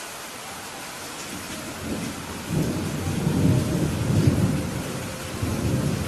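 Steady rain hiss with a low rumble of thunder that builds about two seconds in, peaks over the next couple of seconds and swells again near the end.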